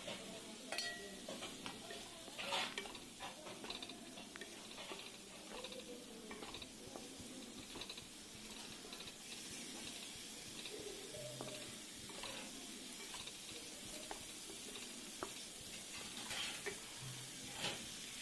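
Tomato pieces frying in spiced masala paste in a nonstick kadai, sizzling faintly while a wooden spatula stirs and scrapes the pan, with short knocks of the spatula on the pan now and then.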